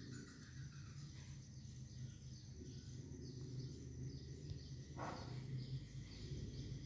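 Faint outdoor background with a steady low hum and scattered faint high chirps, and a brief rustle about five seconds in.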